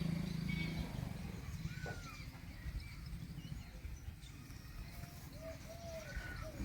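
Scattered short, arched bird chirps over a low rumbling background, with a steady low hum that stops about a second in.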